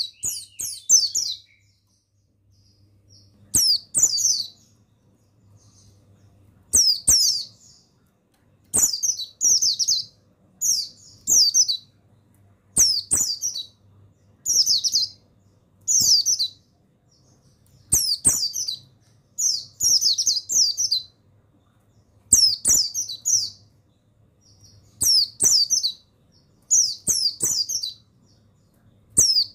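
Pleci buxtoni white-eye singing: short bursts of high, fast twittering phrases, often in pairs, repeated every second or two. This is a recording used to stimulate caged pleci into singing.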